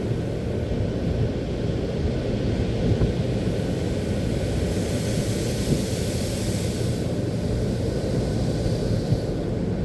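Automatic car wash running: a steady low rumble of machinery, with a broad hiss that swells about five seconds in and fades away near the end.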